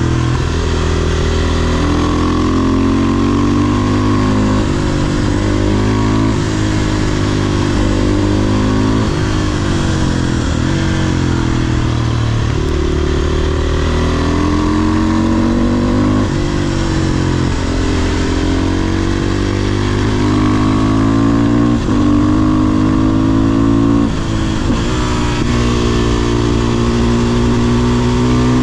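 500cc supermoto's single-cylinder engine pulling up through the revs and dropping back again and again, its pitch rising during each pull and falling at each shift or throttle lift.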